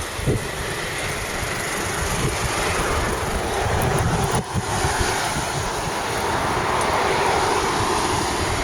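Wind buffeting the microphone, with rushing road and riding noise, while moving along on a bike.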